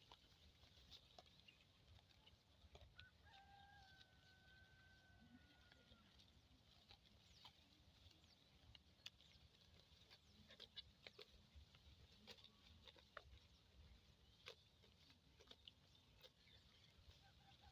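Faint rural outdoor ambience with a distant rooster crowing once, about three seconds in, its call held for roughly three seconds. Scattered faint clicks run through it.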